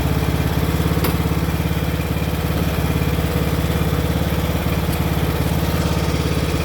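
Small riding lawn mower's engine running at a steady speed, with an even, rapid firing pulse.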